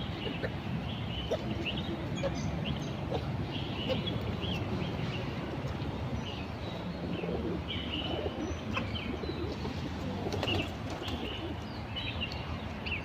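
Wild birds chirping in short, frequent calls, mixed with doves cooing, over a steady low background noise.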